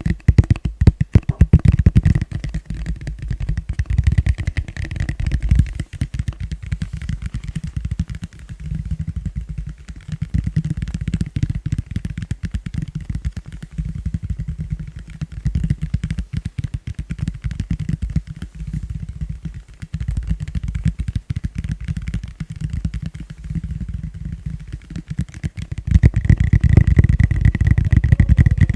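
Fast, gentle tapping on a plastic bowl: a dense, rapid patter of taps that run almost together, growing louder near the end.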